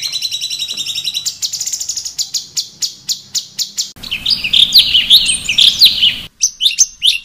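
Cucak cungkok song: a fast run of repeated high chirps, then, after a splice about four seconds in, a varied phrase of sweeping whistled notes over a background hiss, and another cut to short chirps near the end.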